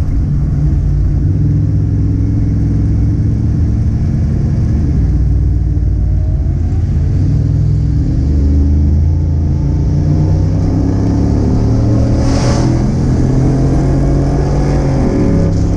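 Car engine running steadily under way, its pitch drifting up and down. There is a short hiss about twelve seconds in, and the engine note drops near the end.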